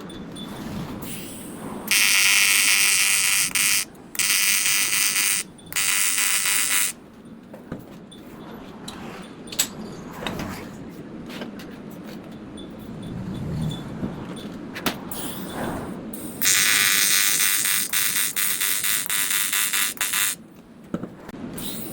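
AC TIG welding arc on aluminum buzzing in bursts: three short bursts of one to two seconds near the start, then one longer burst of about four seconds later on. Quieter clicks and handling noise fall between the bursts.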